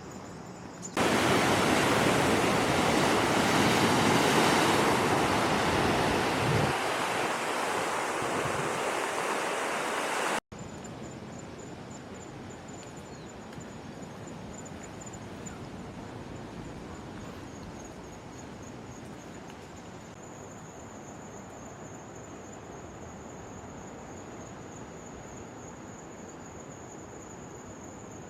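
Loud rushing water for about nine seconds, then a hard cut to softer water-like noise with a thin, high insect trill that is pulsing at first and steady from about two-thirds of the way in.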